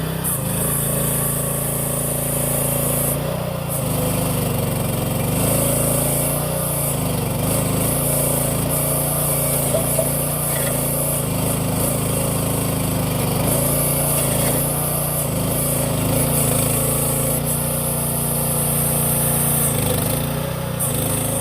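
A mini excavator's 13.5 hp Briggs & Stratton small petrol engine running steadily, its pitch dipping briefly several times.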